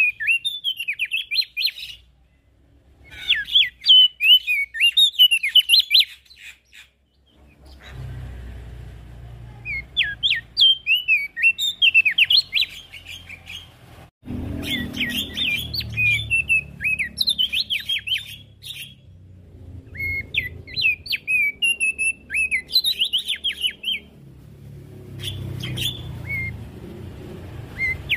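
Opior jambul songbird singing in lively bursts of rapid high chirps and sweeping whistled notes, phrases of a few seconds broken by short pauses. A low background rumble comes in about a quarter of the way through.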